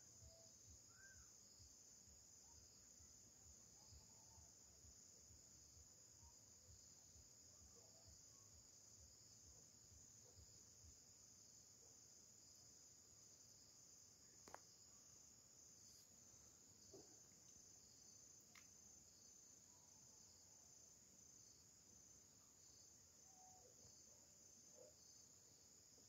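Faint, steady, high-pitched insect chorus running without a break. A single sharp click comes about halfway through.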